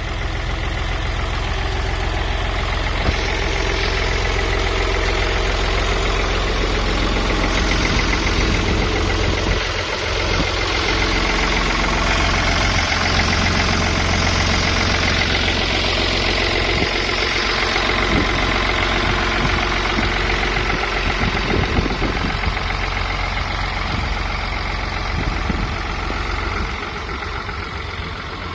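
Ford 4610 tractor's three-cylinder diesel engine running steadily, a little quieter near the end.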